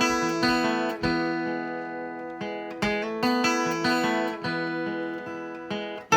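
Acoustic guitar being fingerpicked: single plucked notes and light strums over lower strings left ringing.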